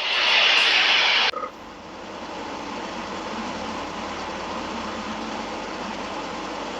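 Loud rushing vehicle noise that cuts off abruptly about a second in, followed by a quieter, steady vehicle hum.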